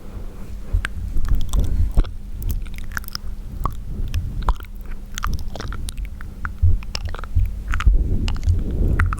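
Wet mouth sounds made close to the microphone: irregular clicks, pops and smacks of lips and tongue.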